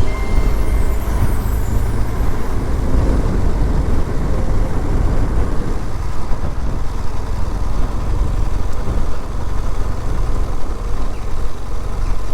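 Riding on a BMW R1200GS motorcycle heard through a microphone inside the helmet: steady wind rush and buffeting over the boxer-twin engine running at cruising speed.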